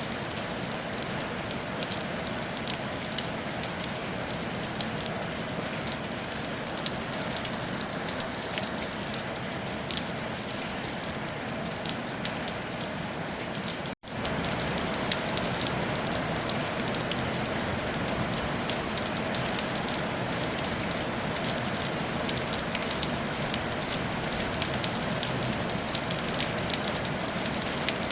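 Steady rain falling on a tile roof, an even hiss with the patter of many single drops. About halfway through it cuts out for an instant and comes back slightly louder.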